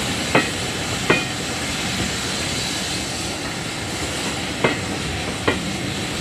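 A train rolling past on jointed track, its wheels clicking over the rail joints in pairs over a steady rumble and hiss.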